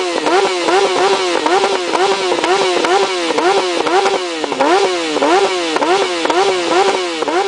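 Motorcycle engine revved in quick repeated throttle blips: the pitch climbs and falls back about two to three times a second without a break.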